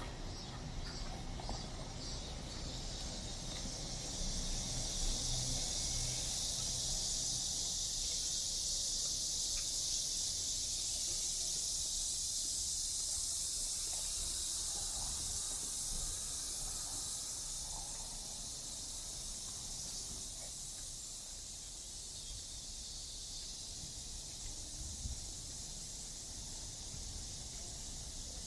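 Cicadas buzzing in a dense, steady chorus that swells about four seconds in and eases off after the middle, over a low background rumble.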